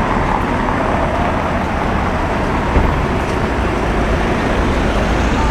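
Street traffic: car engines running and vehicles passing in a steady rumble.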